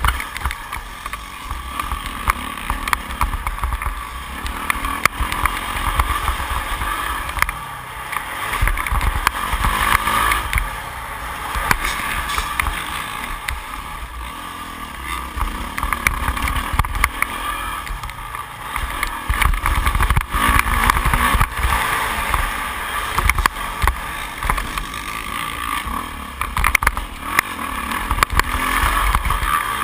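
Yamaha YZ450F's single-cylinder four-stroke engine running under constantly changing throttle while riding a motocross track, with wind rumbling over the microphone.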